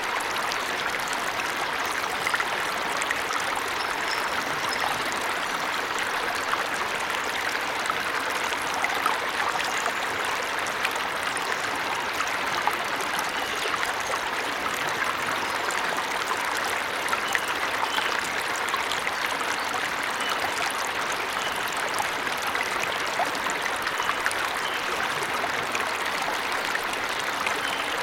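Small forest waterfall: water rushing and splashing steadily over rocks, an even, unbroken wash of sound.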